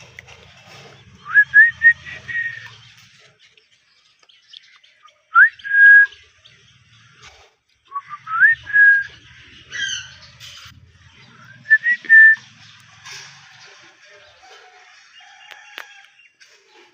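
Ringneck parrot whistling: four times, a clear whistle slides upward and then holds a steady note, with a short, harsher call about ten seconds in.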